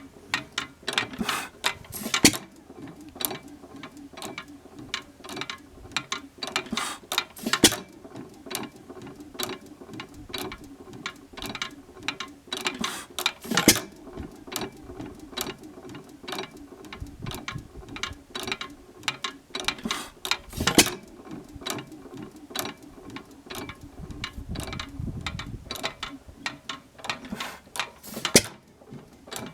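1918 Monitor 5 hp single-cylinder hit-and-miss engine running unloaded: a steady rapid clicking of its valve gear and rocker while it coasts, broken by a louder sharp bang about every six seconds as it fires.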